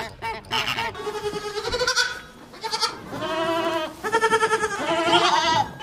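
Goat bleating: about four long, wavering bleats, after a few short honking bird calls in the first second.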